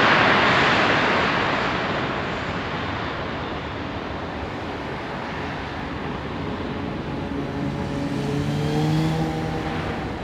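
Airbus A321 jet engines: a loud, even roar at its loudest at the start, fading over the next few seconds as the airliner moves away. Near the end a lower hum with several steady pitches swells briefly and fades.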